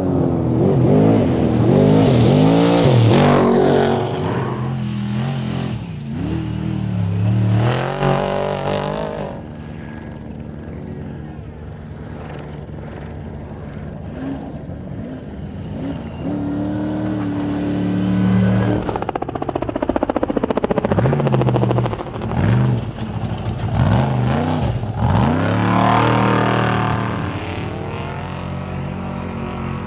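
Off-road race truck engines revving hard and passing at speed, their pitch sweeping up and down several times, with a quieter, steadier stretch of engine sound in the middle.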